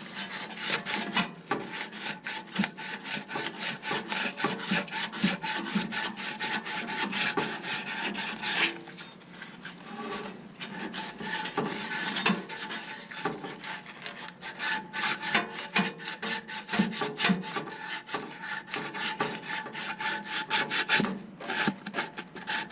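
Sandpaper rubbed back and forth in quick, even strokes on the rusty shaft of an HVAC blower motor, scouring off rust so the blower wheel can be slid off. The strokes stop briefly a few times.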